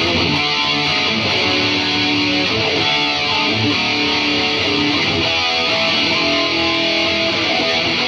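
Electric guitar played through an Atomic AmpliFire amp-modelling pedal and cheap computer speakers: a run of single notes, some held, at a steady level.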